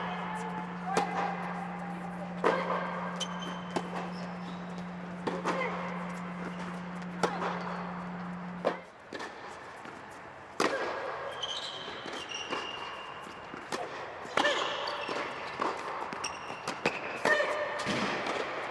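Tennis rally: racket strikes on the ball about every one and a half seconds, with short high squeaks between the hits. A steady low hum runs underneath and cuts off about halfway through.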